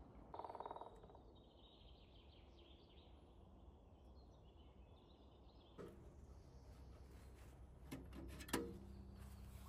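Faint bird chirps with a brief buzz just before them, then, about six seconds in, a few sharp clicks and knocks, the loudest near the end.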